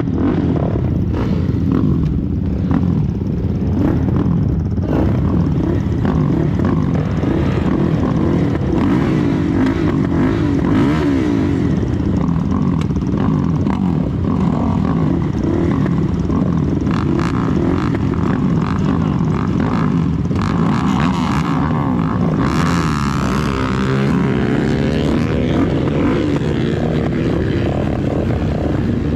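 Race ATV engine running hard and revving, its pitch repeatedly rising and falling.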